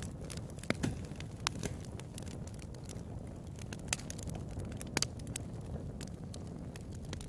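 Wood fire burning in a fireplace, a low steady rumble of flame with irregular sharp crackles and pops, the loudest about a second in and again around four and five seconds.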